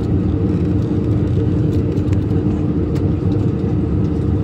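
Steady in-flight cabin drone of an airliner, engine and airflow noise, with a constant low hum.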